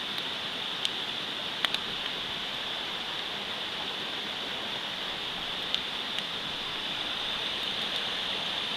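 Campfire crackling, with a few sharp wood pops, over the steady rushing of a mountain stream.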